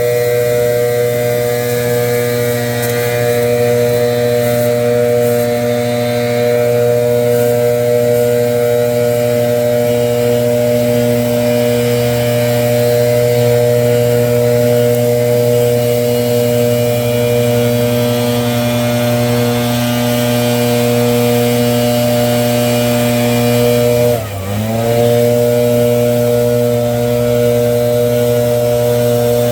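Gas-powered leaf blower running steadily at a constant pitch. Near the end its engine speed drops briefly and comes straight back up, as the throttle is eased off for a moment.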